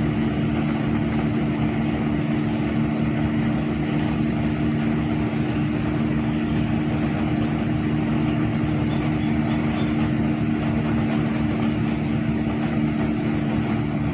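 Combine harvester running steadily at working speed while harvesting wheat: a constant engine and machinery drone with a steady low hum.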